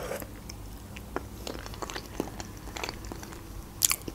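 A person chewing a mouthful of spaghetti in cream sauce: soft wet mouth clicks and smacks, with one louder smack near the end.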